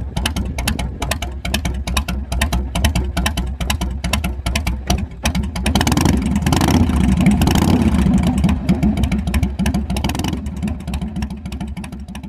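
Motorcycle engine running with a rapid, even beat of exhaust pulses. It swells louder around the middle as it is revved, then eases off and fades out near the end.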